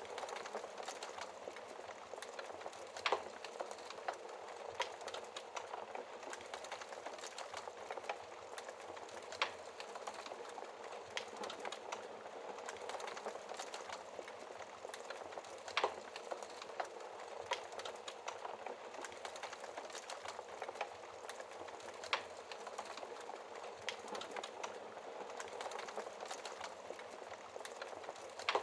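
Wood fire crackling in a fireplace: a steady hiss of burning logs full of small crackles, with a louder sharp pop about every six seconds.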